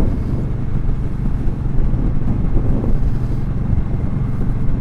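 Indian Scout Sixty's V-twin engine running steadily on the road, with wind noise on the microphone.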